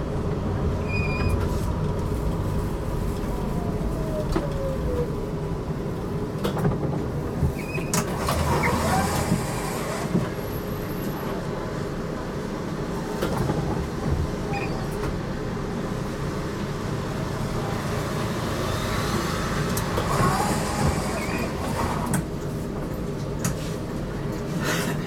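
HTM GTL8 articulated tram running on street track, heard from inside: a steady rumble of wheels and traction motors with scattered clicks and rattles, and a falling motor whine about four seconds in.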